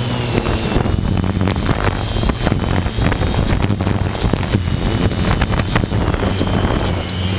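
Strong wind buffeting the microphone, a dense rumbling, crackling noise. The drone's steady motor hum is underneath at first, drowned out for most of the time, and comes back near the end.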